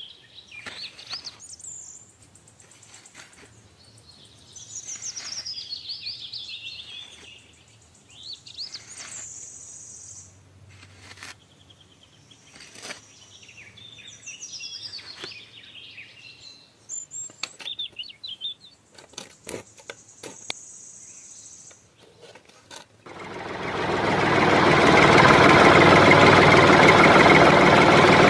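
Birds chirping, then about three-quarters of the way through a small motor starts suddenly and runs loud and steady with a dense buzzing noise, presumably the DIY tractor's motor driving its water pump.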